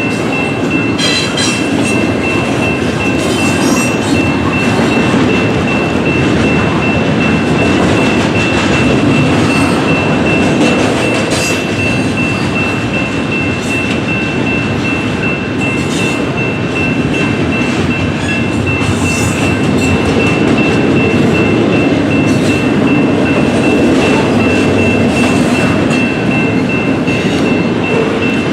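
A train rolling past with a steady rumble of wheels on the rails and scattered faint clicks, under a steady high-pitched whine.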